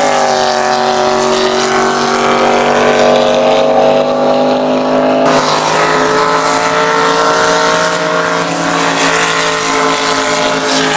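Drag boat's 585 big-block Chevrolet V8 running loud and steady at high revs, the tone changing abruptly about five seconds in.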